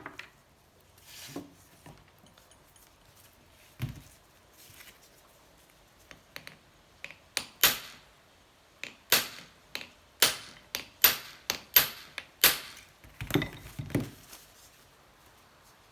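A few light knocks, then from about halfway through a run of about a dozen sharp metallic hammer strikes, roughly one to two a second, with a softer cluster of knocks near the end. The blows are working a seized cylinder off a Honda C70 Cub engine.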